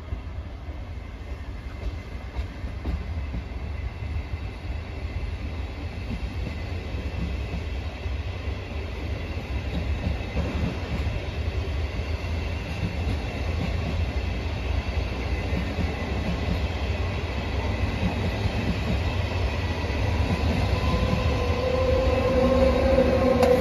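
Electric trains at a station: a steady low rumble that grows gradually louder as a train approaches. About 20 seconds in, a steady pitched whine sets in and becomes the loudest sound.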